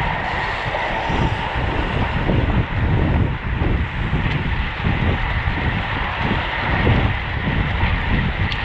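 Wind rushing and buffeting on the microphone of a camera riding on a road bike at race speed, over a steady high whine.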